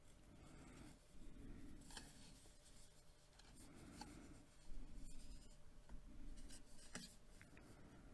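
Faint rustling and handling of a small book's pages, with a few light clicks and taps.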